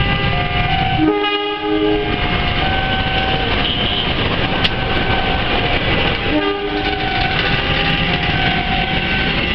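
Passenger train rolling slowly into a station with a steady heavy rumble and scattered high metallic squeals from the slowing carriages. A train horn sounds about a second in for about a second, and again more briefly and faintly around six and a half seconds in.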